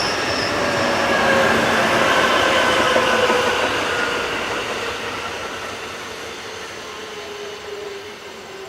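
Freight train of Koki 50000 container wagons rolling past and receding, the running noise fading steadily, with thin steady tones from the wheels that slowly drop in pitch.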